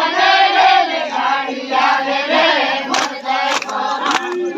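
A crowd of voices singing and chanting together in a garba song, with a few sharp hand claps about three seconds in.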